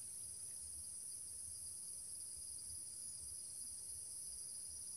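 Steady high-pitched chorus of insects, running without a break, over a faint low rumble.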